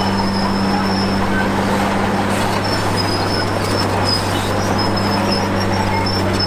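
Heavy earthmoving machinery working: a steady engine drone with a high, thin metallic squeal that comes and goes.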